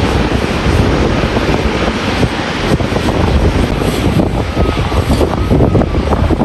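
Korean Air Boeing 777-300ER's GE90 jet engines running hard on departure, a steady rumble, with heavy wind buffeting the microphone.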